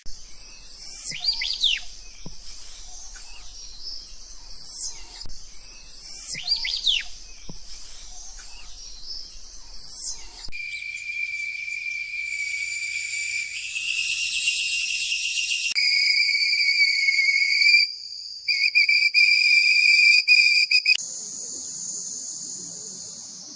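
High whistled bird calls with sweeping notes, repeating in the same pattern every few seconds. From about ten seconds in, a steady shrill high drone takes over, with a brief break near the three-quarter mark.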